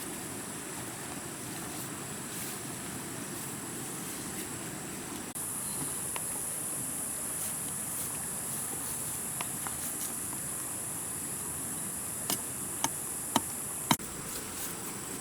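Insects droning in a steady high-pitched chorus, jumping up in level about five seconds in, with four sharp knocks about half a second apart near the end.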